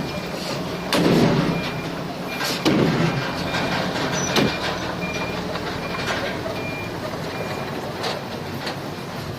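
Heavy machinery running with a reversing alarm beeping about twice a second, which stops near the end. Several loud knocks sound over it, the loudest two in the first three seconds.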